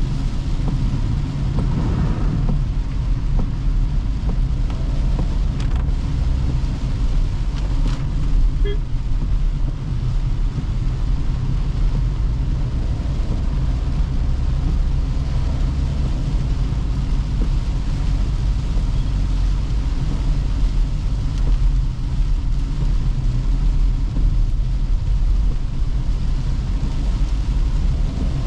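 Toyota Hyryder hybrid SUV on the move: a steady low rumble of road and tyre noise, even throughout with no sharp events.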